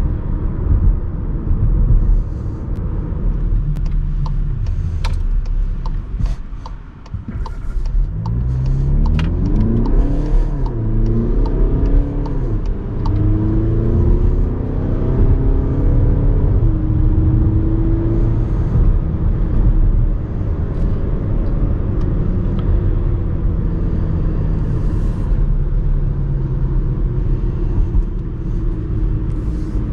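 Skoda Kodiaq's 2.0 TDI four-cylinder turbodiesel heard from inside the cabin, accelerating hard in sport mode. The engine note climbs and drops back at each upshift, then settles into steady cruising with road and tyre noise.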